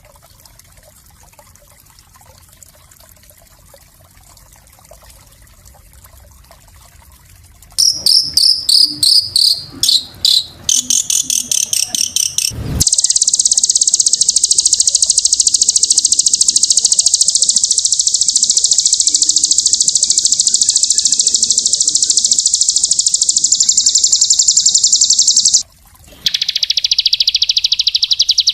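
Small songbird singing. After several quiet seconds comes a run of quick, high, downward-sliding notes, then a very fast, high-pitched trill lasting about twelve seconds, a brief break, and a second, shorter trill near the end. These are the tight, rapid 'speed shot' bursts prized in masteran recordings.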